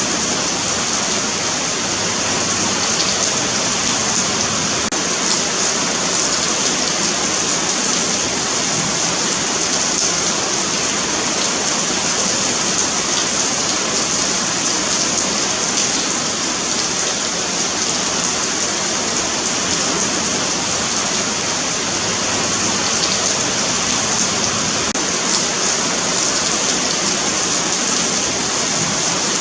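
Steady rain falling on a paved sidewalk, an even hiss of drops without pause.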